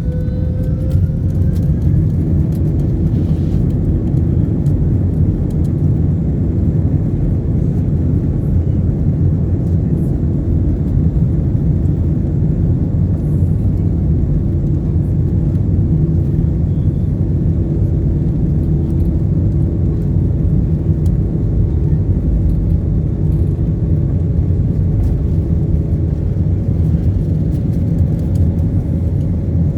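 Airplane engines running at takeoff power, a loud steady rumble; in the first second or two a fainter tone rises in pitch as the engines spool up.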